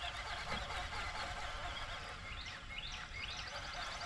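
Birds chirping, a string of short rising and falling calls, over a low steady rumble of outdoor background noise.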